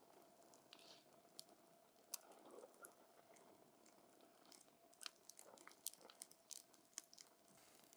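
Wood campfire burning quietly, with irregular sharp crackles and pops, more of them in the second half.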